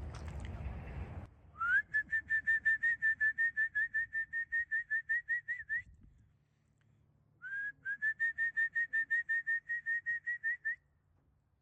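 A person whistling a rapid, warbling trill to call racing pigeons down to the loft: two long runs of quick repeated notes, about seven a second, each opening with a rising slur.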